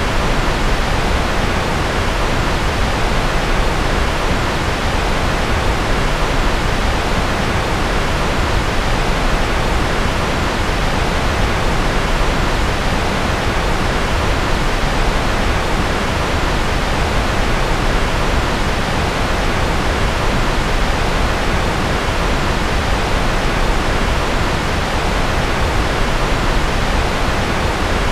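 Steady, generated white noise: an even, unchanging hiss with no rhythm or events, fuller in the lows than in the highs.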